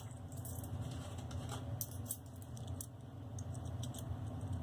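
Nickels dropped one by one into an aluminum foil boat, giving a few short light clicks spread over the seconds, over a steady low hum.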